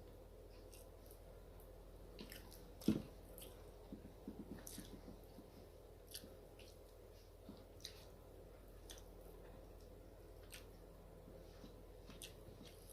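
Close-up chewing and mouth sounds of someone eating rice with chicken curry: soft wet smacks and small clicks, with one louder knock about three seconds in.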